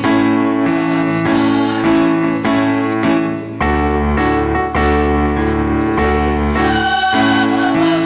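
Women's choir singing with electric keyboard accompaniment, held chords changing every second or so, a deeper bass line entering about three and a half seconds in.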